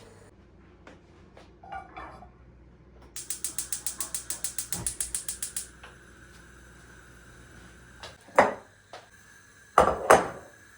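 Rapid, even ratcheting clicks from a small mechanism, about seven a second for two and a half seconds, followed later by three loud knocks near the end.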